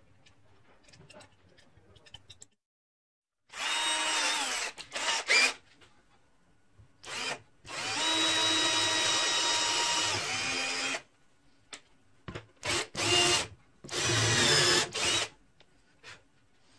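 Handheld power drill run in several trigger bursts, the longest about three seconds, its motor whine dropping in pitch as each burst is released.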